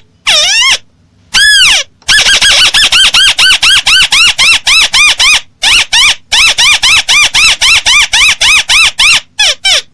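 Crake (burung tikusan) calls played as a bird lure: rapid runs of short, harsh arched notes, about five a second, broken by a few brief pauses.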